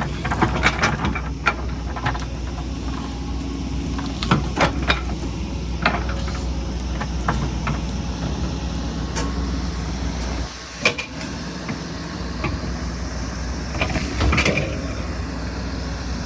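Excavator's diesel engine running steadily, with scattered knocks and clanks from the machine at work. The engine sound drops briefly about ten and a half seconds in, followed by a sharp knock.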